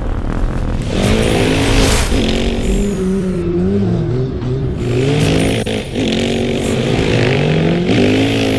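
Kawasaki off-road vehicle engine revving, its pitch rising and falling repeatedly as the throttle is worked, with a few bursts of rushing hiss.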